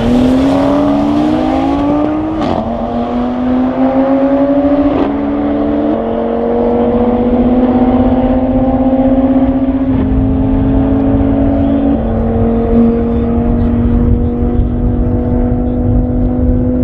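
Tuned Audi RS3's turbocharged five-cylinder engine pulling hard at full throttle in the high gears of a top-speed run. Its pitch climbs slowly through each gear, with quick upshifts about two and a half, five and ten seconds in.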